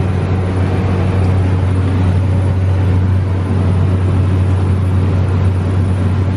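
Steady low vehicle drone with a constant hum and an even rush of noise over it.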